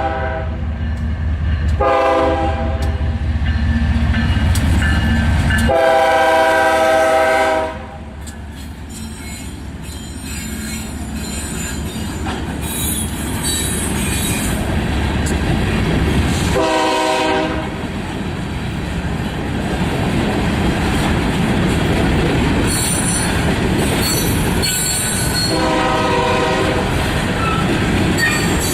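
BNSF freight train led by GE ES44DC and C44-9W diesel locomotives passing: the horn sounds a short blast and then a long one over loud engine rumble, which drops off suddenly as the locomotives go by. The cars then roll past with wheel clatter and squeal, and the horn sounds twice more.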